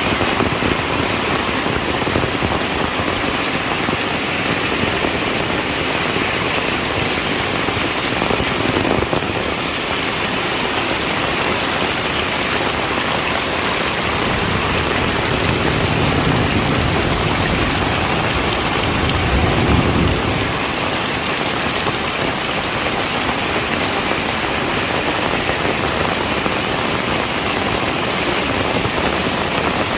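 Heavy rain falling steadily, an even hiss of drops on surfaces. A low rumble swells and fades between about fifteen and twenty seconds in.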